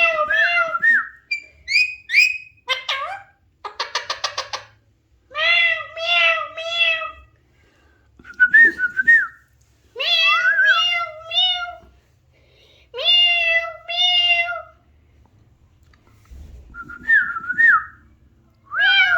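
Alexandrine parakeet calling in a series of short, pitched, meow-like phrases and whistles, with pauses between them and a rapid trill about four seconds in.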